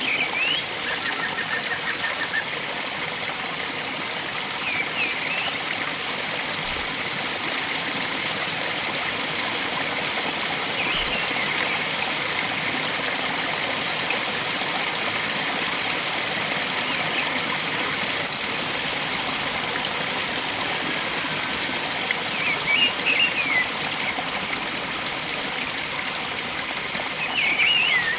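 Steady rush of flowing water from a forest stream, with birds calling now and then over it: a short trill about a second in and brief chirping calls a few times, the loudest near the end.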